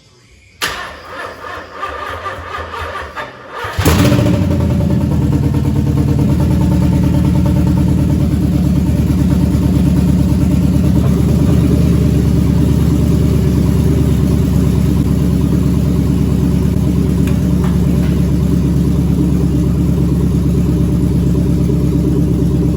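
LS1 V8 engine's first start after being swapped into the car: the starter cranks it for about three seconds, then it catches and runs loud and steady.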